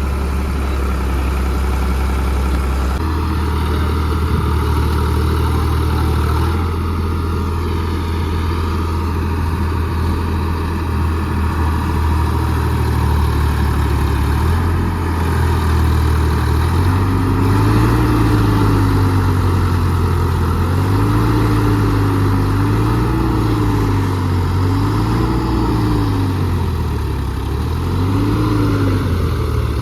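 Diesel tractor engine running steadily, then through the second half revving up and down about five times, the repeated revving of a tractor working to pull free of mud.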